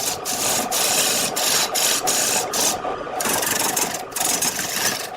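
Wood lathe running while a turning tool cuts the spinning wood, giving a steady hiss of shavings. The cut breaks off briefly several times, most clearly a little before the middle.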